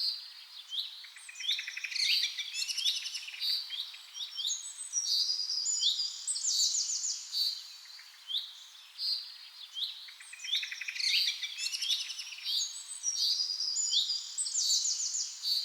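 Several birds calling together in a rainforest chorus: overlapping high-pitched chirps, short whistled notes and quick trills, over a faint steady hiss. The same run of calls comes round again after about eight seconds.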